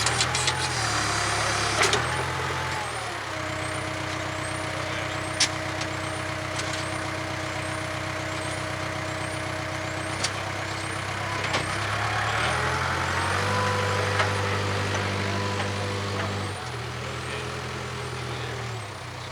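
Case 580K backhoe's diesel engine running, its pitch dropping and rising several times as the machine works, with a few sharp clanks.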